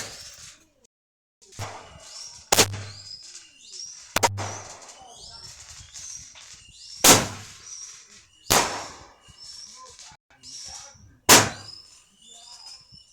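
Fireworks going off: five sharp bangs spaced one to three seconds apart, each with a short ringing tail, and faint high chirps in between.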